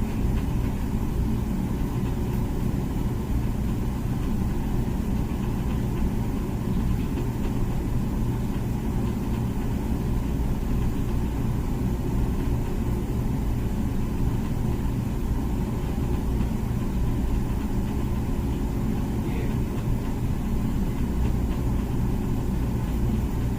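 Comfee dishwasher running, a steady low hum and rumble with no change in level.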